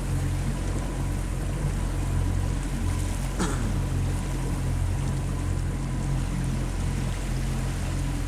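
Boat motor running steadily under way upriver, a constant low hum, with water rushing and splashing past the hull.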